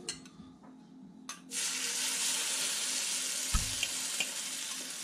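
Beaten egg and vegetable omelette mixture sizzling as it hits hot oil in a cast-iron pan: the sizzle starts suddenly about a second and a half in and then carries on steadily. A low thump about halfway through, with a few light clicks of the spoon against the bowl.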